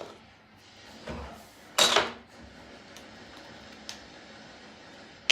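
Containers and tools being handled while mixing hair bleach: a dull thump about a second in, then one loud sharp clack about two seconds in, and a small click later.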